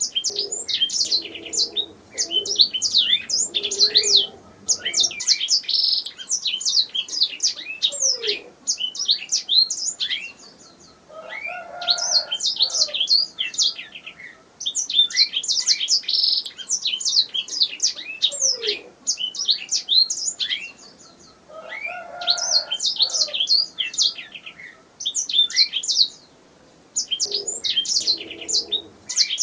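Domestic canary singing: long phrases of rapid, high chirps and trills, each lasting several seconds, with brief pauses between them.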